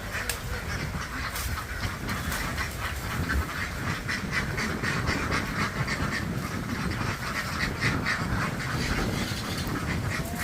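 A large flock of domestic ducks quacking continuously, many calls overlapping into a steady din, over a low rumble.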